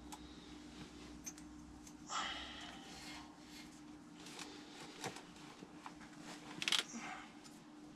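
Hand work on an HVAC blower's motor mount: scattered light metal clicks and taps, a short scrape about two seconds in, and a sharper clatter of clicks near the end, over a faint steady hum.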